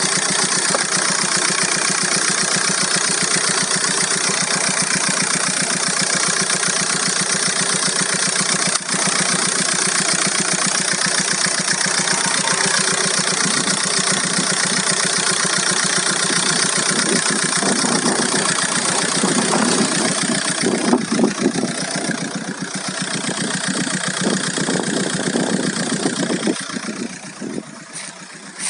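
Volkswagen Golf Mk4 1.9 TDI 115 four-cylinder turbodiesel engine idling, with a strange noise that the owner cannot identify. The sound grows uneven in its later part and falls away near the end.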